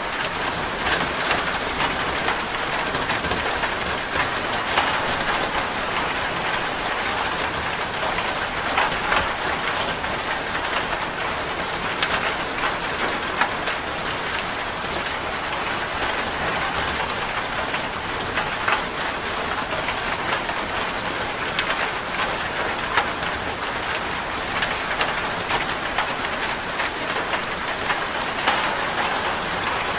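Steady rain falling, with many small scattered drop ticks over a continuous hiss.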